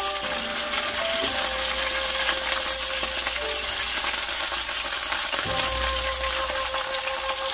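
Food frying in hot oil in a pan: a steady sizzle with faint crackles, under background music with held notes.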